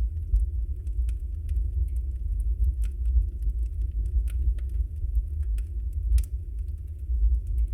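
Wood fire burning in a fireplace: a steady low rumble of flames with scattered, irregular crackles and pops from the burning logs, one sharper pop about six seconds in.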